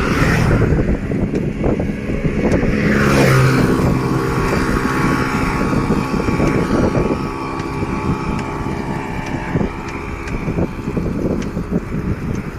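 A motor vehicle engine passing close by, its pitch dropping about three seconds in and then holding steady for several seconds, over wind buffeting the microphone of a moving bicycle.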